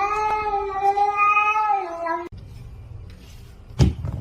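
A cat giving a long, drawn-out yowling meow that holds for about two seconds and then cuts off suddenly. A single thump follows near the end.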